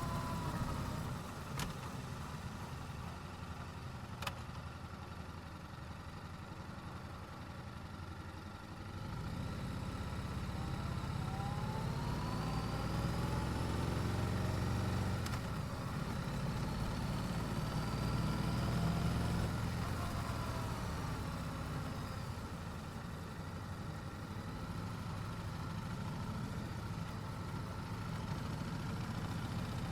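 Yamaha YZF-R7's 689 cc parallel-twin engine through its stock exhaust, heard from the rider's seat. It runs low and steady for the first several seconds, with two short clicks. Then it gets louder, its pitch rising and falling in the middle, and eases off toward the end.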